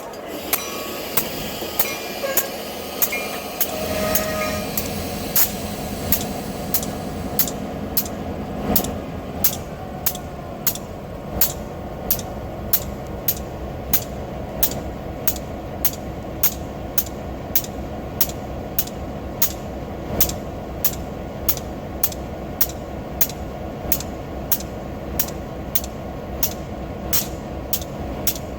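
Empty freight train rolling past: a steady rumble with sharp, evenly spaced clicks about one and a half a second, the wheels crossing rail joints. The low rumble grows fuller about four seconds in.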